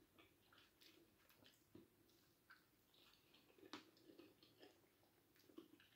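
Faint chewing of a mouthful of pasty, with soft scattered mouth clicks and one slightly sharper click a little past halfway.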